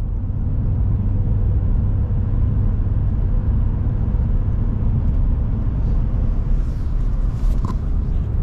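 Pickup truck driving on a snowy road: a steady low rumble of engine and tyres, with a short click near the end.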